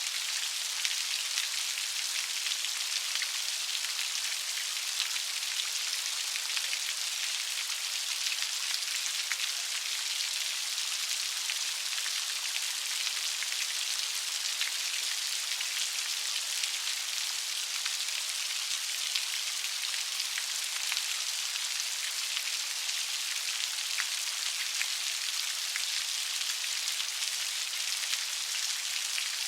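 Steady light rain: an even hiss of falling rain with many small, crisp drop ticks, no thunder.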